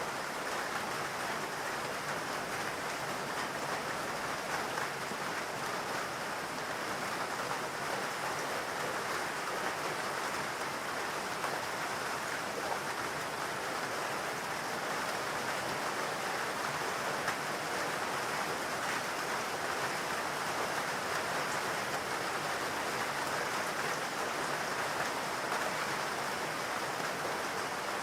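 Steady rain falling in a forest, an even hiss of many drops without a break.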